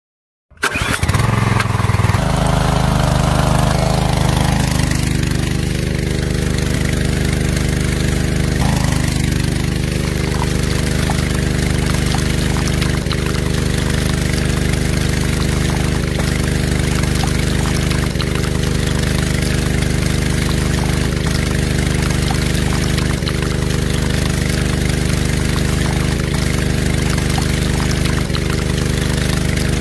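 Toy mini diesel engine running at a steady, even speed while driving a small water pump. It comes in abruptly about half a second in.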